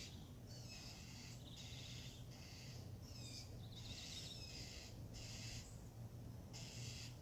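Backyard songbirds singing, about eight short phrases of quick high chirps, some of them falling in pitch, over a steady low hum.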